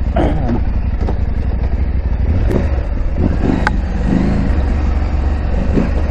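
KTM 890 Adventure R parallel-twin engine running as the bike is ridden, the revs rising and falling briefly several times. A sharp knock is heard about halfway through.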